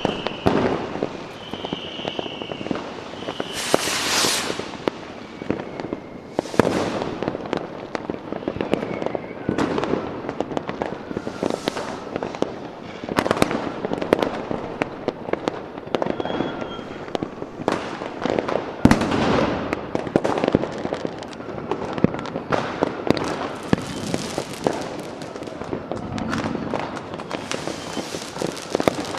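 Fireworks going off without pause: dense crackling and bangs, with several rushing hisses of rockets and a few short, faint whistles.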